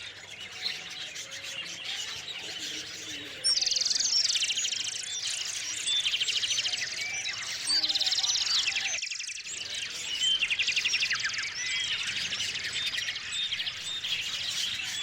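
Small songbirds chirping and calling at a feeder, with repeated rapid trills that come in louder several times over the stretch.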